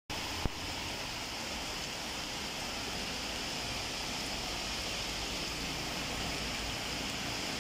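Heavy rain falling on a flooded street and the water on the pavement, a steady hiss, with a single click about half a second in.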